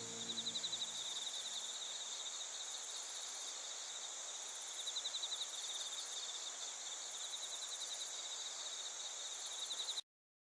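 Night chorus of crickets and other singing insects: several high, steady trills overlapping, with a louder pulsing trill that comes twice, near the start and about five seconds in. The chorus cuts off suddenly about ten seconds in.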